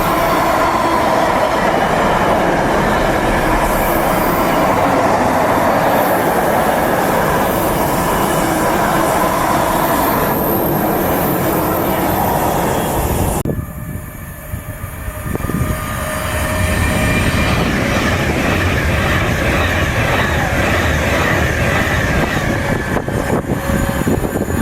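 A train passing through a station on the main line: steady, loud wheel-on-rail running noise. It cuts off abruptly about halfway through, and after a short lull a second passage of train noise builds up again.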